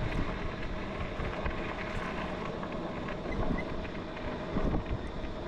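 Steady road and traffic noise mixed with wind rumble on the microphone while riding a bicycle along a main road, swelling briefly twice as vehicles pass.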